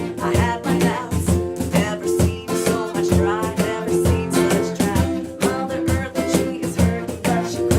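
A band playing a song, with guitar over a steady drum beat.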